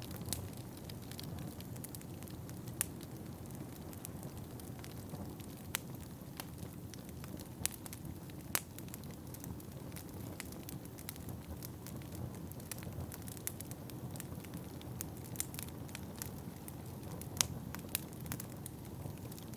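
Wood fire crackling in a fireplace: irregular sharp crackles and a few louder pops over a steady low rumble.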